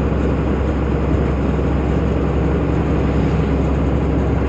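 Tata truck's diesel engine and road noise while driving: a steady low rumble with no change in speed.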